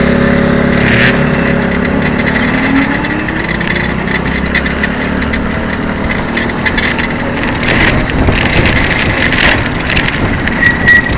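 150cc engine of a tandem leaning trike motorcycle running, its pitch rising and falling over the first few seconds, then giving way to rougher running noise with scattered clicks and knocks.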